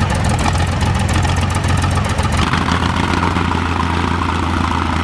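Vintage car engine idling steadily, with a clattery texture that eases a little a couple of seconds in.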